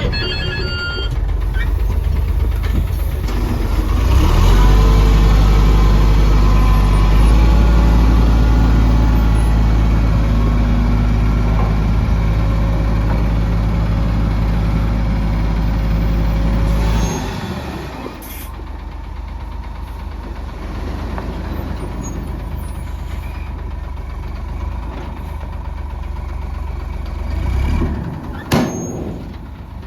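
Heavy diesel engine running hard and steady, then dropping back to a lower, quieter run just over halfway through. A short, sharp sound near the end.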